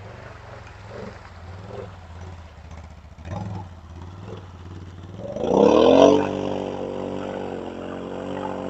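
An ATV engine running low for about five seconds, then revving up sharply and holding at steady high revs, as a four-wheeler tries to push through a deep mud crossing.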